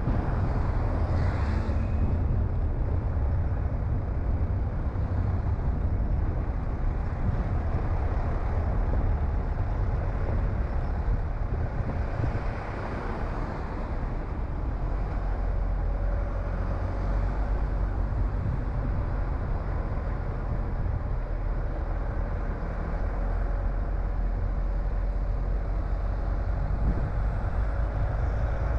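Car being driven: steady engine and road noise with a deep low rumble. A faint engine note rises and falls gently in the later part.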